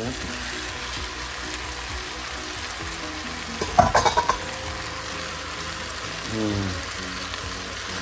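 Chow mein noodles sizzling and frying in a hot wok as cooked shrimp are added and stirred in. Just before four seconds in comes a quick run of sharp clatters, the loudest thing heard.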